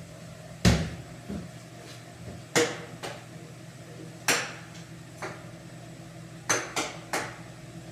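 Kitchen clatter: about nine sharp, irregularly spaced knocks of cookware or utensils being handled, over a steady low hum.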